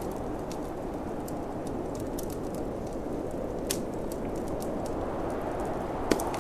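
Wood fire crackling in a fireplace, with scattered sharp pops over a steady rush of snowstorm wind; one louder pop comes near the end.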